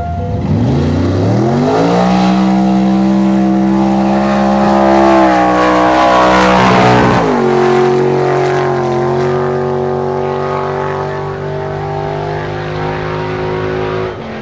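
Drag car's engine at full throttle down the strip: the revs climb over the first two seconds and hold high, then drop sharply with a gearshift about seven seconds in. After that it runs at a steady note that slowly fades as the car pulls away, then drops suddenly near the end.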